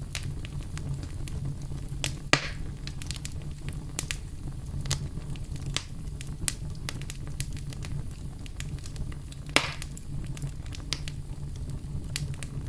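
Wood fire crackling: many small snaps over a steady low rumble of flames, with two louder pops, about two seconds in and about nine and a half seconds in.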